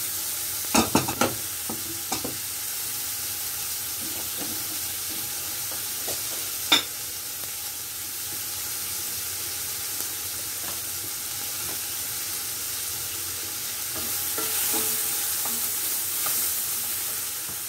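Sliced red peppers sizzling steadily in a frying pan on a gas hob, with a few sharp clatters of a pan being set down about a second in and one more knock near seven seconds. The sizzle swells briefly near the end as the peppers are stirred with a wooden spatula.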